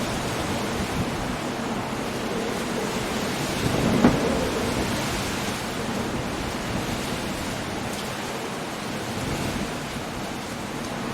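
Coastal storm: steady heavy rain and wind noise, with a brief louder surge about four seconds in.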